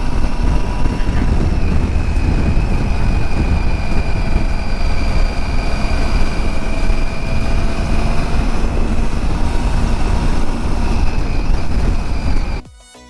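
Triumph Tiger 800's three-cylinder engine running at a steady cruise under heavy wind rush over the microphone, cutting off suddenly near the end.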